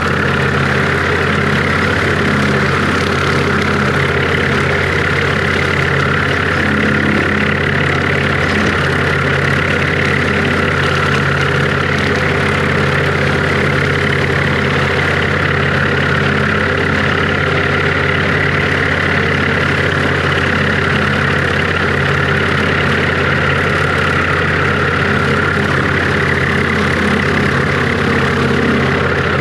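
International Harvester 1086 tractor's six-cylinder diesel running steadily while pulling a bush hog, heard from the cab with a side door off.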